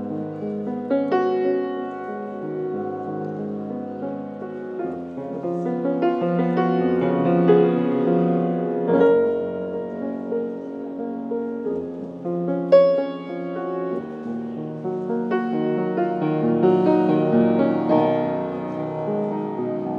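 A rebuilt Steinway Model L grand piano being played: a flowing piece of chords and melody, notes struck and left ringing, with a loud accented chord about thirteen seconds in.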